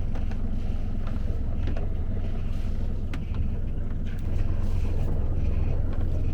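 Great Dane 28 sailboat's engine running steadily while motoring under way, with a little wind on the microphone.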